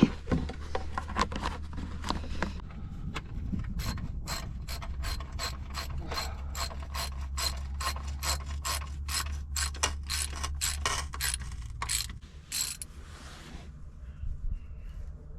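Hand ratchet wrench clicking in quick, even runs as a fastener on the tractor is turned, over a low steady hum that drops away near the end.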